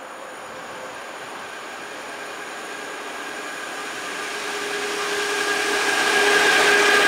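An ET22 electric locomotive hauling a freight train of hopper wagons approaches along the track. Its running noise on the rails grows steadily louder, and a steady whine comes in over the last couple of seconds as it draws close.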